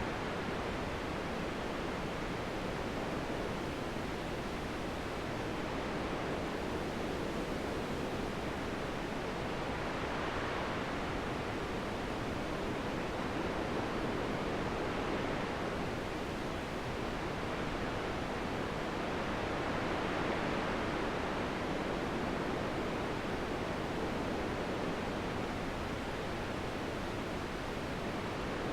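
Wind blowing steadily, an even rushing hiss that swells and eases gently every few seconds.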